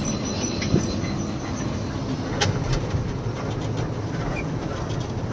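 Steady engine and road noise of a moving lorry, with a few light clicks and rattles.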